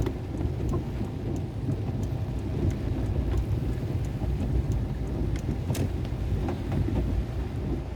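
Steady rain with a low rumble underneath and scattered drips ticking.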